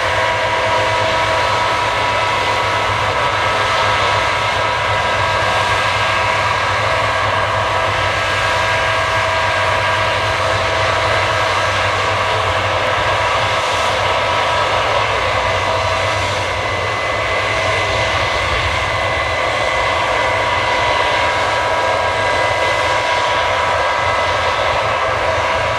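Case combine harvester running steadily at work harvesting barley: engine and threshing machinery with a constant rumble and several steady whining tones.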